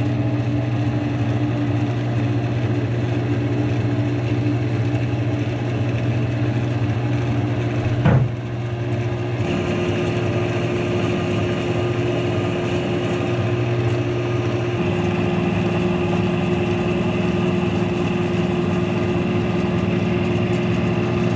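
Wood lathe running steadily, spinning a maple blank while a drill bit held in the tailstock drill chuck bores the pilot hole for a bottle stopper. The steady hum gives one brief knock just before halfway and changes tone twice after that.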